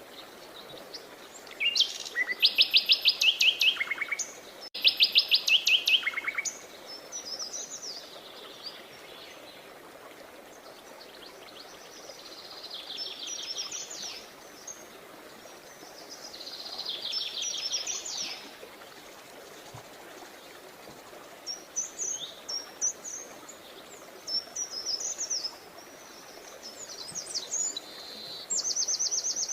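Songbirds singing: rapid trilled songs of quick repeated notes, the two loudest a few seconds in, then softer trills and scattered short chirps, with a high trill near the end, over a steady faint background hiss.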